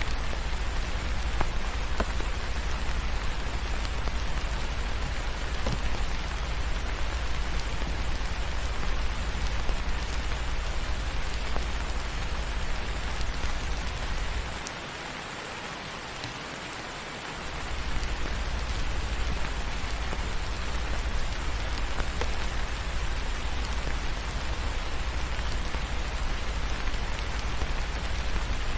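Steady rain falling on a surface, an even hiss with a deep low rumble underneath. The rumble drops out for about three seconds around the middle, then returns.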